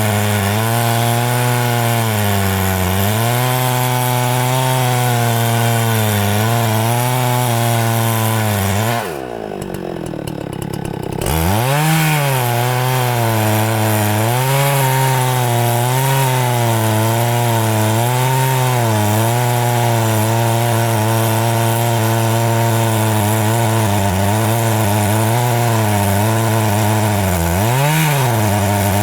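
Two-stroke chainsaw cutting into the base of a very thick tree trunk, its engine pitch wavering up and down as it labours under the load. About nine seconds in the engine drops back and quietens for about two seconds, then revs up again and keeps cutting; near the end there is a brief rev up and down.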